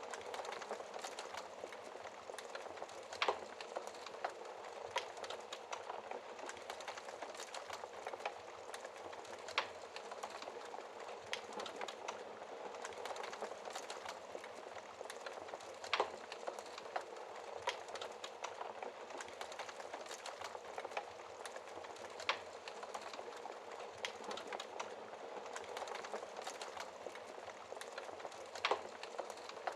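Wood fire in a fireplace crackling steadily over a soft hiss, with frequent small snaps and a few louder pops spaced several seconds apart.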